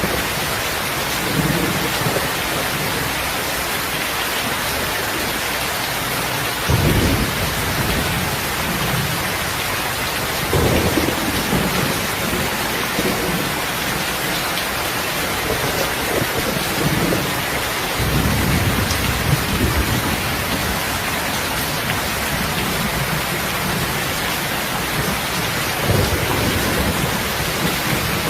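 Steady heavy rain, with low rumbles of distant thunder rolling in four times.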